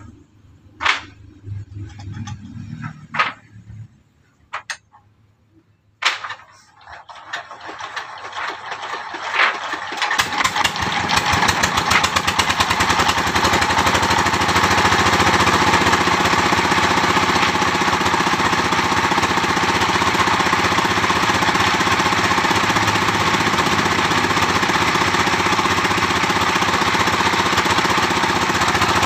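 Sawmill machinery starting up about six seconds in and building to a steady, loud, rapid clatter by about fourteen seconds. A few sharp knocks come before it.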